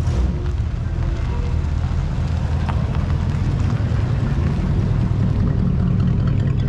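A classic American car's engine giving a steady deep rumble as it rolls slowly past at low speed.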